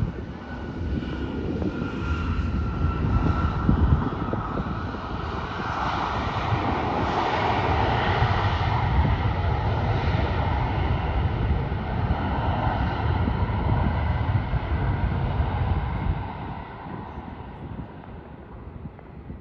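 Jet airliner passing by: a steady engine roar with a whine that slides slowly down in pitch, swelling in the middle and fading away over the last few seconds.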